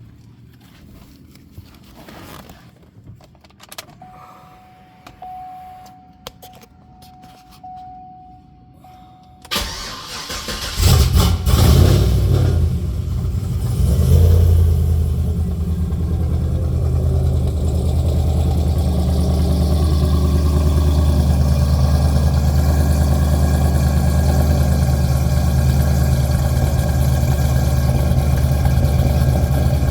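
A car's engine being cold-started. A few faint clicks and a faint steady tone come first. The engine cranks and catches about nine and a half seconds in, flares up in revs for a few seconds, then settles into a steady fast cold idle.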